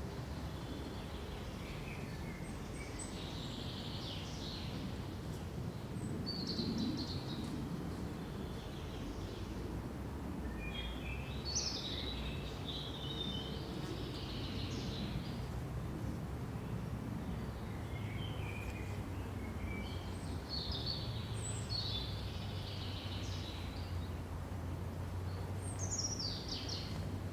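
Songbirds singing in the woods: about five scattered bouts of high chirps and trills, over a steady low rumble.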